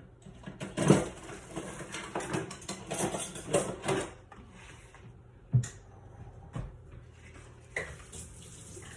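Cooking utensils, a spatula among them, clattering and scraping against pots and pans. There is a busy run of knocks for about the first four seconds, then a few single knocks.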